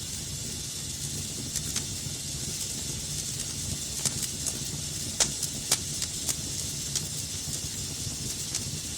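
Wood fire burning in a fireplace: a steady hiss and low rumble with scattered sharp crackles and pops, the loudest two a little past five seconds in and just before six seconds.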